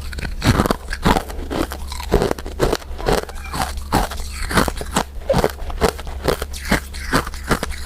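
Close-miked chewing of powder-coated mint candies: quick crunching bites, about two or three a second, over a steady low hum.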